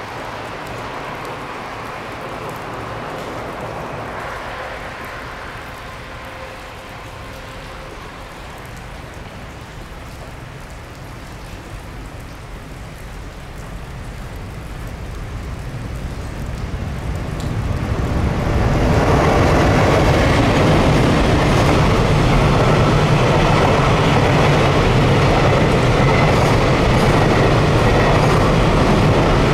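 Container freight train hauled by an electric locomotive, approaching and then passing close. The sound grows from about 14 seconds in and stays loud and steady as the long line of container wagons runs past on the rails.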